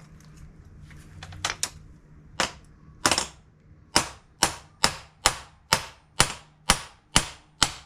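Hammer driving a door-hinge bushing into its hole: a few scattered taps, then steady sharp blows about two a second.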